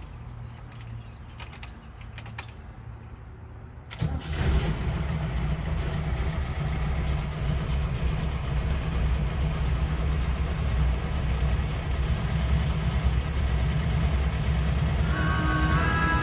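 Air-cooled 1600 single-port flat-four engine of a 1968 Volkswagen Westfalia bus being started: a few seconds of faint cranking, then it catches about four seconds in and runs steadily.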